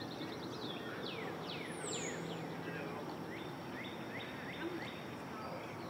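Outdoor ambience of small birds calling over a steady background hiss: runs of quick downward-sweeping chirps, several a second, mostly in the first half, and one high down-slurred whistle about two seconds in.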